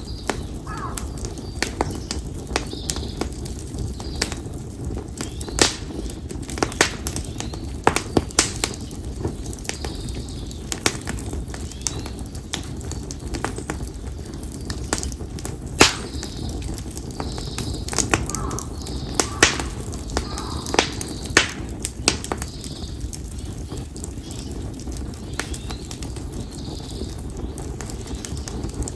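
Konara oak firewood burning in an open bonfire: irregular sharp crackles and pops, with a cluster of louder ones through the middle, over a steady low rumble of the flames.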